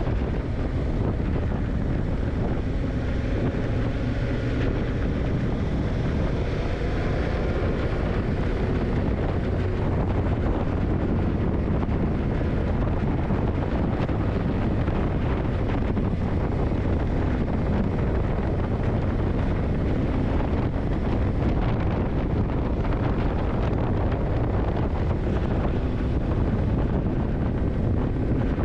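Yamaha TDM900's parallel-twin engine running under way, buried in heavy wind buffeting on the microphone. The engine pitch drifts up and down during the first several seconds, then the sound settles into a steady rush.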